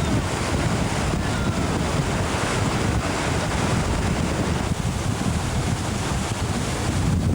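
Steady rushing noise of moving river water, mixed with wind buffeting the camcorder microphone.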